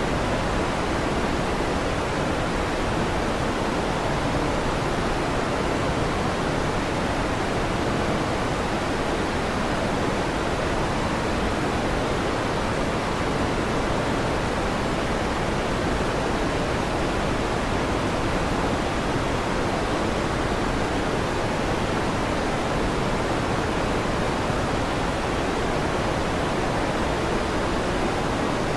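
Electric fan running with an even, steady whoosh, with no thunder claps.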